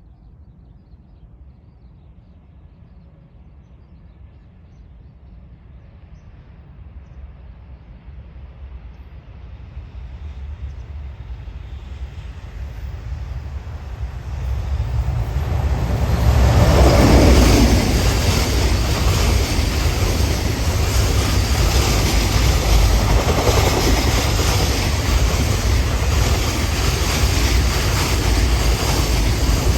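High-speed container freight train approaching and then rolling past close by. Its rumble grows steadily louder for about sixteen seconds, then stays loud and steady as the long string of container wagons goes by.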